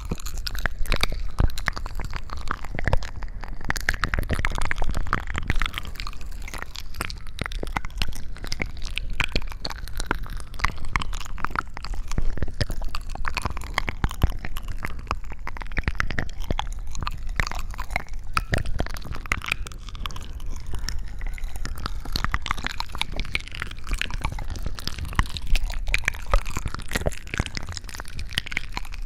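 Close-miked ASMR sounds: a dense, continuous stream of small crunching and crackling clicks with wet squishing.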